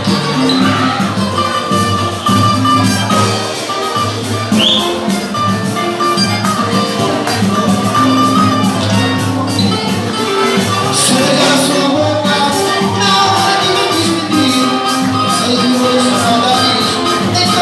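Live band music with a steady, dense percussion beat under sustained melody notes.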